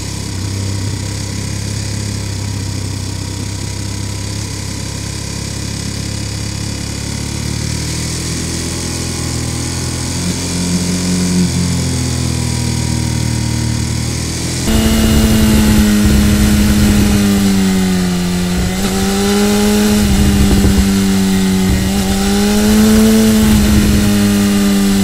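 Ducati Monster 1200S's L-twin engine running steadily at a low pitch while riding. A little over halfway through it cuts abruptly to the louder BMW S1000R inline-four, whose higher note dips and rises several times with the throttle.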